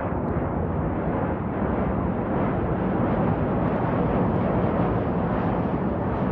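Steady, loud low rumbling noise with no distinct events, swelling slightly about two seconds in.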